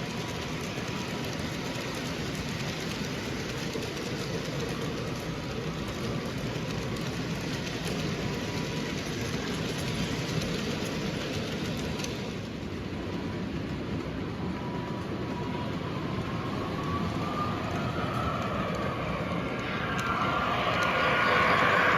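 Model train running on its track, a steady rumble of motor and wheels. Near the end a gliding pitched tone rises and grows loud.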